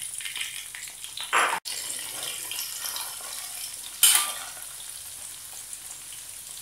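Small dried anchovies sizzling steadily as they deep-fry in hot oil in a wok, with a spatula stirring them. There is a louder scrape against the wok about four seconds in.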